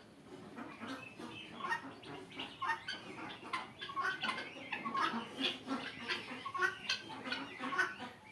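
A flock of guineafowl calling, many short calls overlapping in a continuous chatter.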